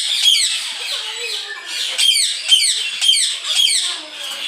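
Caged songbirds calling and singing: a series of sharp, downward-sweeping calls, several about half a second apart, over softer warbling.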